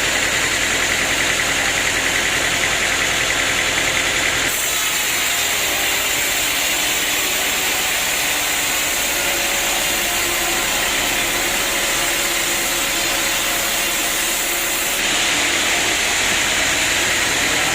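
Sawmill machinery running steadily with an engine sound. The sound changes abruptly about four and a half seconds in, going thinner with less low rumble, and changes back near fifteen seconds.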